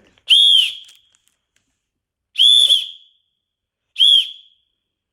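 Small plastic toy whistle from a kids' nature exploration kit, the kind included for signalling if lost, blown in three short, super loud blasts about half a second each, the pitch rising and falling slightly within each blast.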